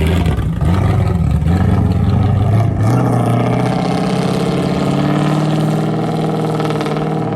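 Supercharged, methanol-fuelled police-car engine revved up and down in short blips, then settling into a steady loud run about three seconds in.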